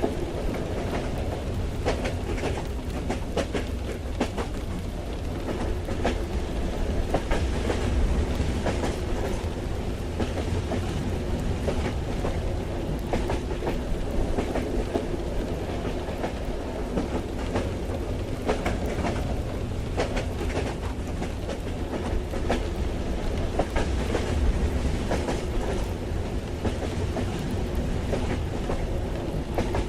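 Inside a moving train carriage: the steady low rumble of the wheels, with irregular clicks and clacks from the rails.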